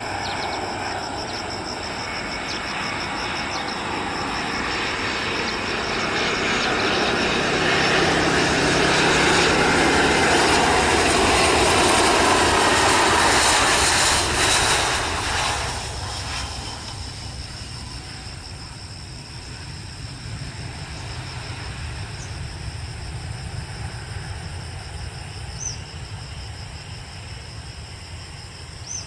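Airbus A320-200 jet airliner landing: engine noise builds, is loudest from about eight to fourteen seconds in as it passes, drops off sharply about fifteen seconds in, then a lower rumble carries on. Insects chirr steadily and faintly underneath.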